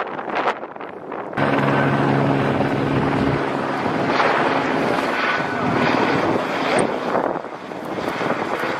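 Wind gusting on the microphone, then from about a second and a half in a loud, steady engine drone with a held low hum under a noisy rush, like an aircraft.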